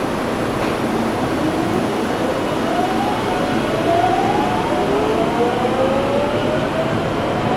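Electric train pulling out of the station: its traction motors give a whine that climbs in pitch in repeated steps from about two seconds in, over steady running noise.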